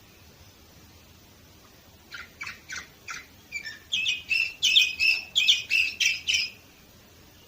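Domestic canary singing one song phrase: a few separate notes about two seconds in, then a fast, louder run of repeated chirping notes that stops near the end.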